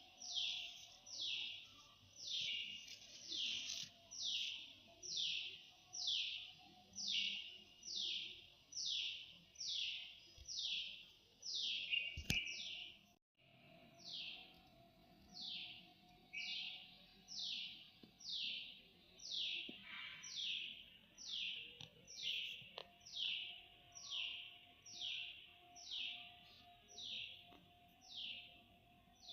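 A bird calling over and over: one short, high, falling note repeated very regularly, a little faster than once a second. The sound cuts out briefly about 13 seconds in, and a faint steady hum lies underneath.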